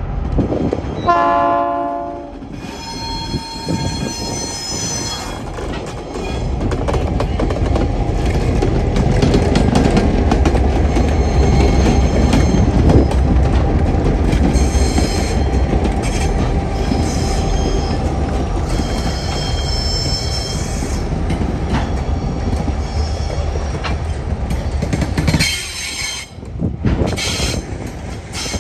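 A short horn blast from TasRail diesel locomotives about a second in, then the diesel engines running and a loaded coal train of hopper wagons rolling past with a steady heavy rumble and high-pitched wheel squeal that comes and goes.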